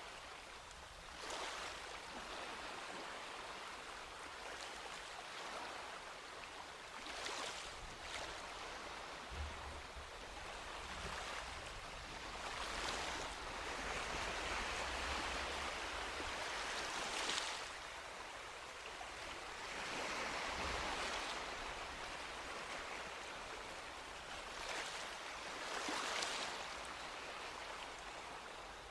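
Sea waves washing onto a beach: a continuous hiss of surf that swells as a wave breaks every few seconds.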